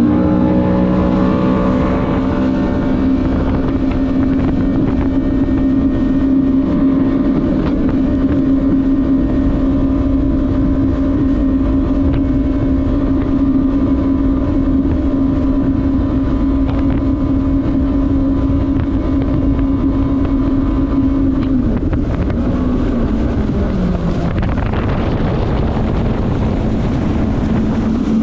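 Jet ski engine held at full throttle, a steady high drone with wind noise on the microphone. About 22 seconds in the pitch drops as the throttle eases off, and the wind noise grows louder.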